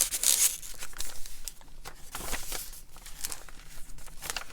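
Paper rustling and crinkling in a string of short, irregular crackles as collage sheets and pages of a handmade journal are handled and turned.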